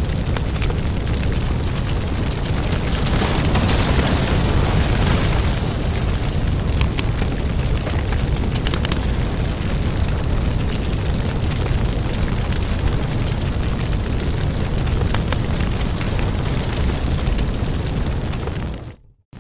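Wood fire burning in a fireplace, with a steady low rumble and many sharp crackles and pops. Near the end the sound fades briefly to silence and comes straight back.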